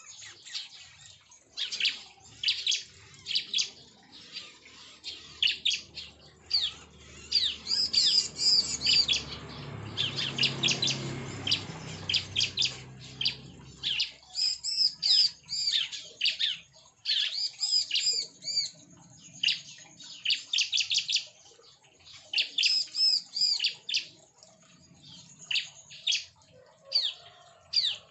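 A colony of prinias (ciblek) in an aviary calling, with many short sharp chirps in quick series from several birds at once. A low rumble runs under the calls for a few seconds in the middle.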